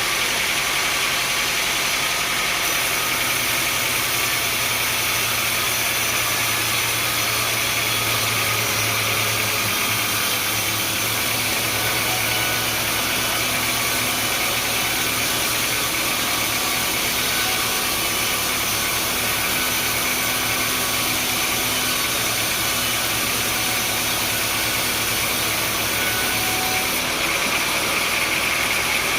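Sawmill machinery running steadily, an engine-driven hum under a constant haze of noise. A deeper hum comes in about three seconds in and drops away a couple of seconds before the end.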